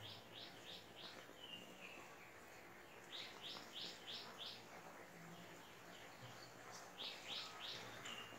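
Faint bird chirping: short high notes in quick runs of three or four, heard three times, over near silence.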